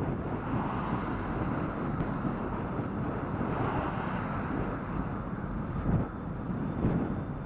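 Wind rushing over the microphone of a camera riding along on an e-bike: a steady rough noise with no distinct events.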